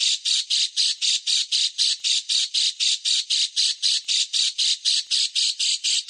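Recorded bird call for tutoring caged birds: one bird repeating short, harsh, rasping notes in a fast even series, about six a second.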